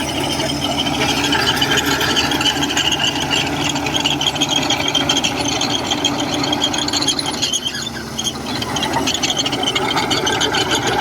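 Crawler bulldozer working, its diesel engine running under a high-pitched metallic squeal and rattle, easing briefly about eight seconds in.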